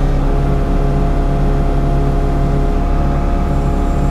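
Engine running at a steady speed, a constant drone heard from inside the cab.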